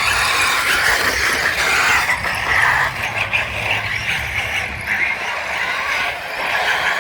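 Radio-controlled car driving: its electric motor and geared drivetrain whirring, swelling and easing as the throttle changes.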